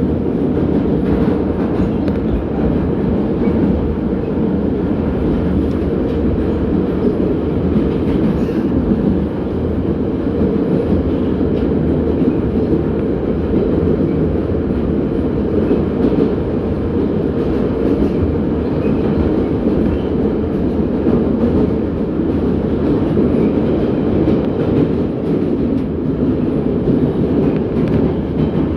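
81-717.6 metro train running at speed between stations, a steady loud rumble of wheels on rail heard from inside the car.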